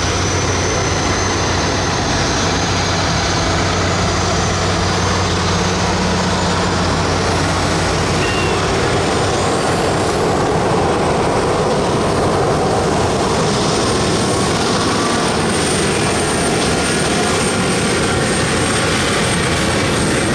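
Modified pulling tractor under full power during a pull: loud, steady engine noise with a thin high whine above it, the low engine tone easing after several seconds.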